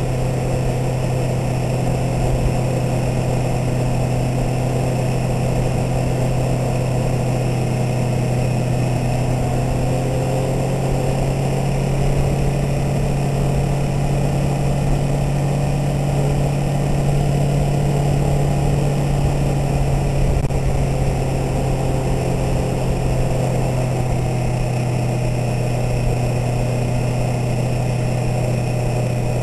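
650R motorcycle engine running at steady, low revs while cruising slowly, through a quiet aftermarket 'stealth' exhaust, with rough rumble from wind and road underneath. The engine note holds nearly constant, rising slightly a little past the middle.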